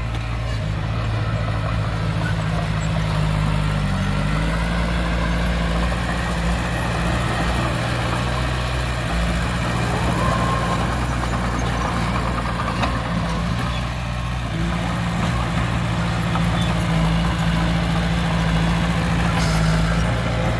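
Heavy diesel engine of earthmoving machinery running steadily, its note shifting a few times.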